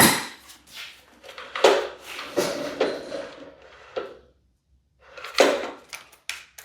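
Workshop handling noises: a hard knock at the start, more knocks and a stretch of scraping and rattling, a short pause, then a few more clunks, as tools and a compression tester are handled on the outboard.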